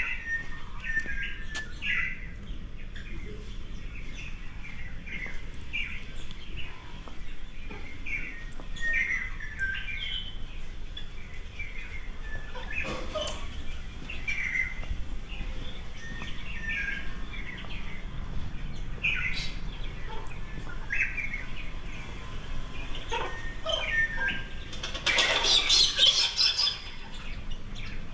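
Small birds chirping: many short, separate chirps repeating throughout, over a low steady background. About 25 seconds in there is a louder, harsher noisy burst lasting about two seconds.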